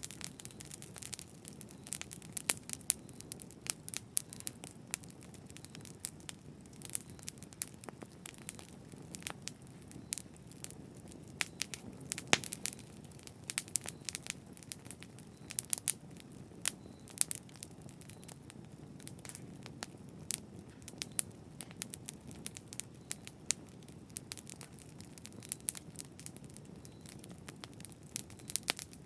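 Campfire burning: irregular sharp crackles and pops from the burning wood over a steady low rumble of flames.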